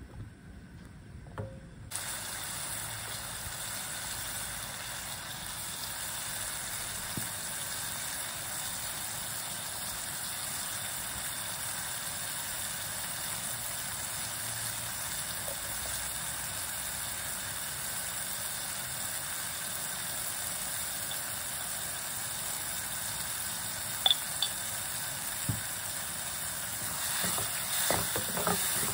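Sliced mushrooms frying in melted butter in a non-stick pan, a steady sizzle that starts about two seconds in. Near the end, a wooden spoon stirring and scraping in the pan adds irregular knocks.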